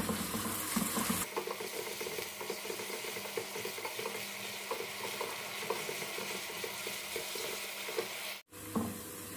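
Sliced shallots, garlic, ginger and curry leaves sizzling in coconut oil in an aluminium pan while a wooden spatula stirs and scrapes them, a steady frying hiss with irregular small clicks of the spatula. The sound cuts out for a moment near the end.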